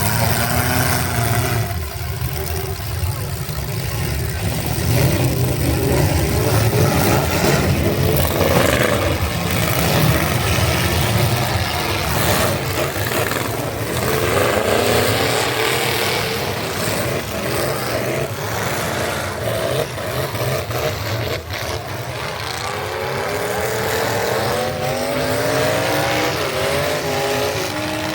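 Competition truck engine running hard and loud, then revving up several times near the end with its pitch sweeping upward.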